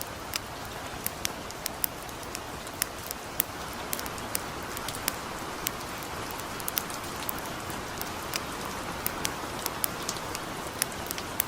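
Steady light rain falling, with the irregular sharp pops and crackles of a wood campfire burning, several a second.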